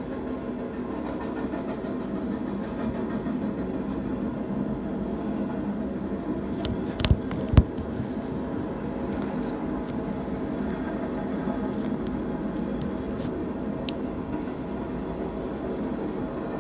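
BNSF intermodal freight train rolling past, its container and trailer cars making a steady rumbling clatter on the rails. Two sharp bangs about half a second apart cut through a little before the middle.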